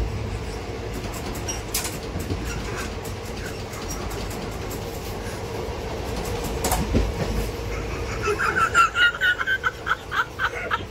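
Passenger train running, heard from inside a sleeper coach: a steady low rumble of wheels and coach, with a couple of sharp knocks. In the last few seconds comes a quick run of short high-pitched pulses.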